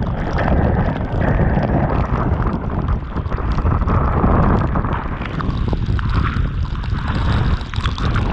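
Strong wind buffeting the microphone, with water rushing and hissing underneath and small crackling splashes throughout.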